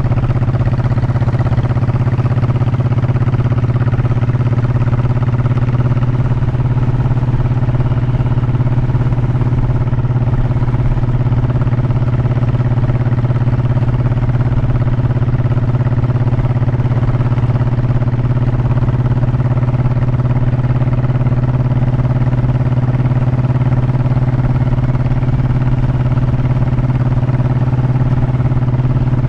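Honda motorcycle engine running steadily at a constant cruising speed, an even hum with no revving up or down, over a low wind rumble on the microphone.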